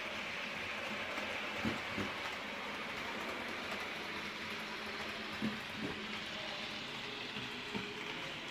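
Model train running on the layout: a steady hiss and hum of the small motor and wheels on the track, with a few clicks, mostly in pairs, as the wheels cross rail joints.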